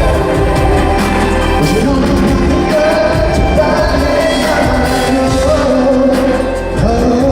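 Live K-pop music with singing over a heavy bass beat, played loud through a concert sound system.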